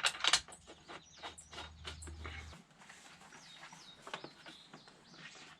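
Scattered light clicks and taps of hand tools and metal parts as the subframe is bolted up, with a few short bird chirps a little past halfway. A low hum drops out about two and a half seconds in.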